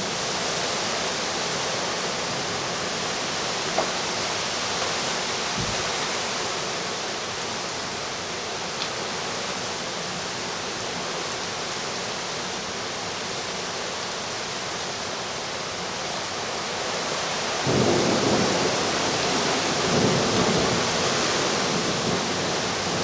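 Severe windstorm: a steady rush of wind and driving rain, swelling into a louder gust about eighteen seconds in.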